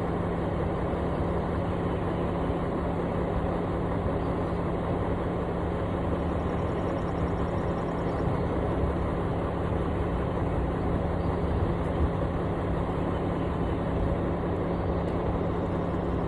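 Engine of a piece of construction equipment running steadily, with a constant low hum and no revving or changes in pace.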